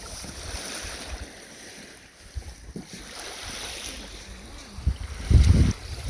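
Wind buffeting the microphone over waves washing onto the beach, with one strong gust of wind noise about five seconds in.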